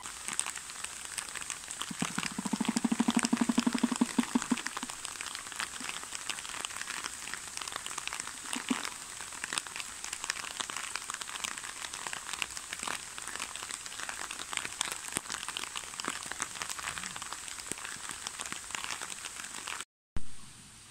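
Steady rain falling, full of small pattering drop clicks. About two seconds in, a loud, rapid, even rattle lasts for about two and a half seconds, with a brief one again later, typical of a shoebill clattering its bill.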